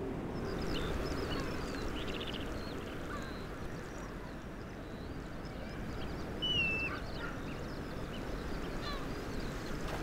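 Birds calling: scattered short squawks and cries, with one longer high call about six and a half seconds in, over a steady rushing background.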